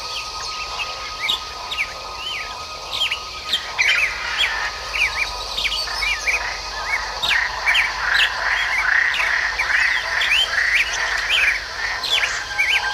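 Many small birds chirping and twittering, a dense chorus of short calls that gets busier in the second half.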